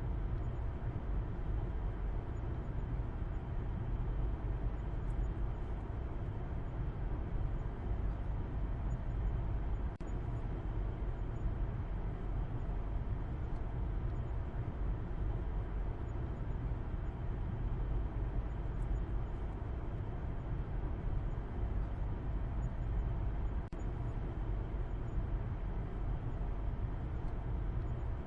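Steady, low rumble of a car driving, an even wash of road and engine noise with no changes in speed.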